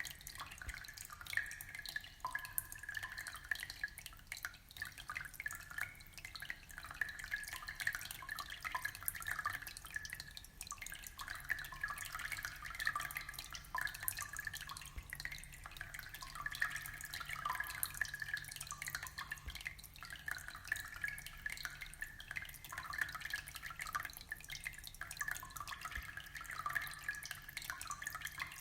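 Aquarium water trickling and bubbling steadily: a continuous stream of small drips, plops and gurgles.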